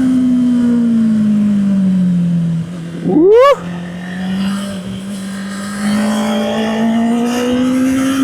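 Honda CB650R's inline-four engine heard from the rider's seat: the revs fall off steadily, then a quick, sharp rev blip rises and cuts off about three seconds in. The revs hold low and then climb smoothly again near the end as the bike accelerates.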